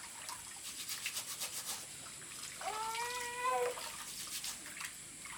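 An animal gives one whining cry about a second long near the middle, rising at first and then held. Light splashing and rubbing of wet handling come before it.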